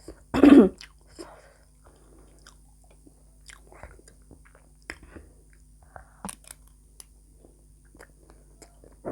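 A person chewing a mouthful of chatpate, the Nepali spicy puffed-rice snack, with soft crunching and small wet clicks. A short, loud vocal sound comes about half a second in.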